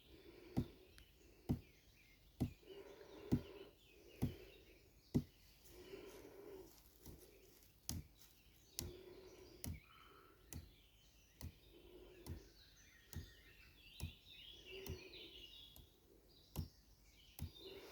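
The back of the forearm striking a post in steady repeated blows for arm conditioning, about one knock a second.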